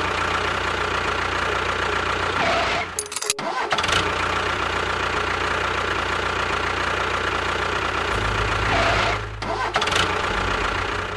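A small engine running steadily, briefly cutting out about three seconds in.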